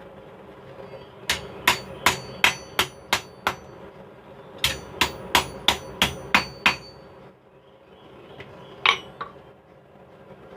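Blacksmith's hammer striking steel on an anvil while forging tongs, with the anvil ringing after each blow. Two runs of about eight quick blows each, then a pause and one more blow, over a steady hum.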